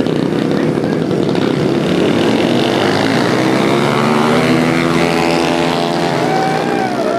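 Several pit bike engines revving and shifting pitch as the small motorcycles race past. A high whistle joins near the end.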